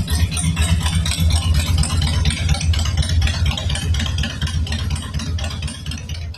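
A 2002 Harley-Davidson Fat Boy's Twin Cam 88B V-twin engine running, a steady deep, lumpy rumble that fades near the end.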